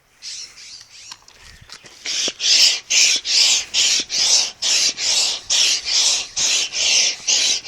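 Hand pump inflating a kite, each stroke a rushing, squeaky hiss of air, about three strokes a second; the pumping picks up and gets louder about two seconds in. The squeak of the pump is bird-like, sounding like a trapped bird.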